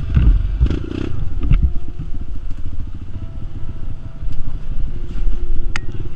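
Kawasaki KLX150S single-cylinder four-stroke trail-bike engine revving unevenly, hardest in the first second and a half, as the bike bogs down in a hole on a slippery climb.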